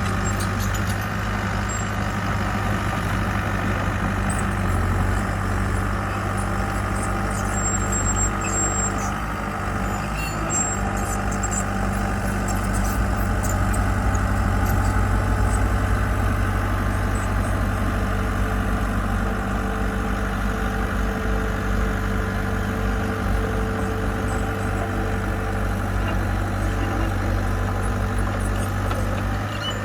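Diesel engine of heavy construction equipment running steadily, a constant low drone with no change in speed.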